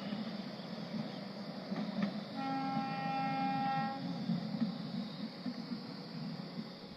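Narrow-gauge toy train running with a steady low rumble; its horn sounds once, a single held note of about a second and a half, a couple of seconds in.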